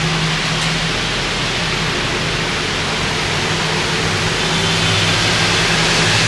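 Steady rushing noise of heavy rain and a vehicle on wet road, with a low, even engine hum underneath.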